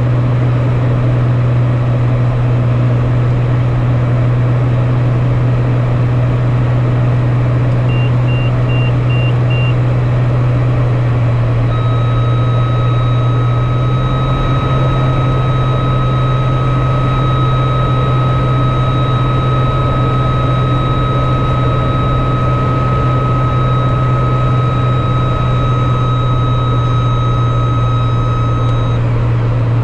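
Aircraft in flight: a steady, loud engine drone and rush of air noise. A brief run of high beeps sounds about eight seconds in, and a steady high tone comes in about twelve seconds in and stops just before the end.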